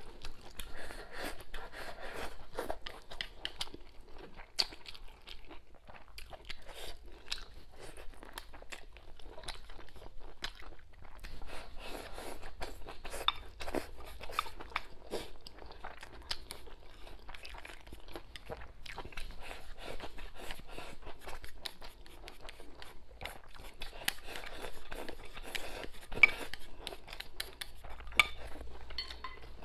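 Close-up eating sounds: chewing braised pig tail and rice, with a steady run of short clicks and smacks and a sharper click near the end.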